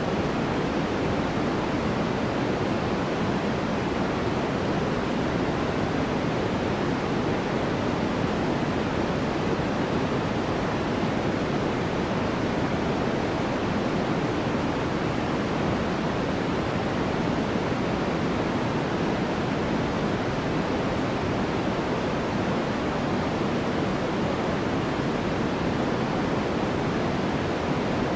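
Steady sleep-aid white noise: an even, unbroken hiss, fuller in the low and middle range than in the treble, with no change at all.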